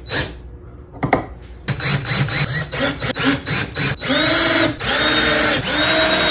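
Power drill driving screws: a couple of clicks, a stretch of quick stuttering pulses, then the motor spinning up in three short runs with a steady whine.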